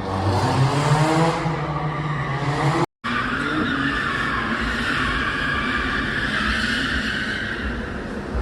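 Car engine revving with rising and falling pitch, then after a short cut a long tyre squeal as the car drifts, with the engine running under it.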